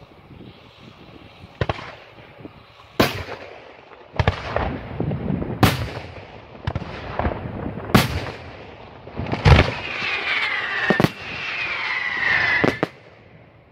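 Daylight fireworks display: aerial shells bursting in sharp bangs one to two seconds apart, each followed by an echo. Over the last few seconds, whistles fall in pitch among the bursts.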